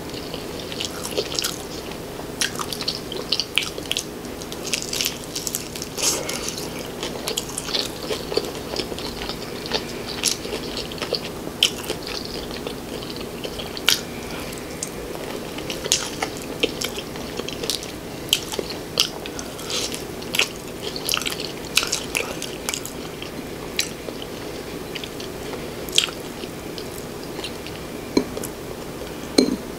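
Close-miked biting and chewing of crispy homemade fried chicken: the breaded skin crunches and crackles in many sharp little snaps, with chewing and mouth sounds between.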